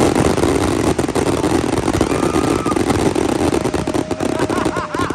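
Fireworks going off in a dense finale barrage: many rapid, overlapping bangs and crackles run together into one loud, continuous din.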